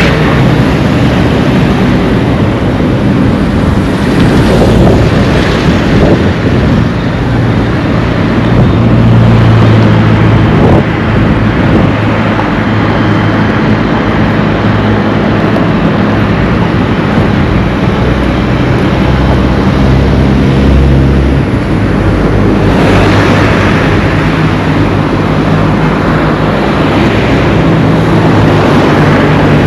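Road traffic: motor vehicle engines running and passing close by, a steady, loud street noise.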